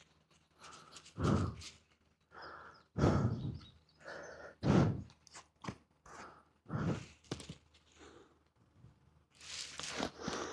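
A person breathing heavily after exertion, one loud breath every second or two.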